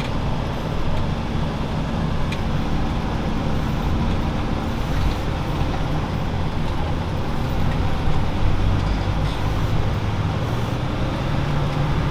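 Valtra T191 tractor engine running steadily, an even low drone.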